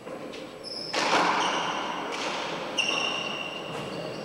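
Handball rally on a four-wall court: the rubber ball smacking the walls and floor about five times, the loudest hit about a second in, each hit echoing, with high squeaks of court shoes on the floor between them.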